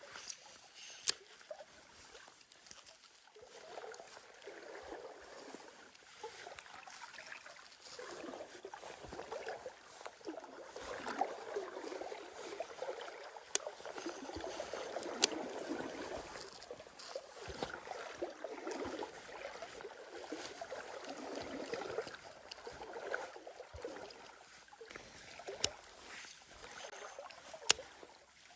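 Mountain stream water rushing and gurgling close by, swelling and easing, with about five sharp clicks scattered through it.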